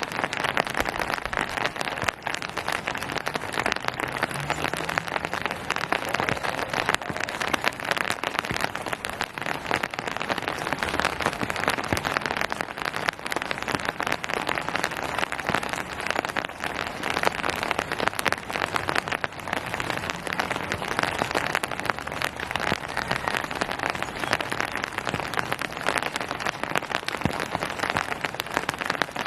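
Steady rain falling on surfaces, a dense even patter of drops.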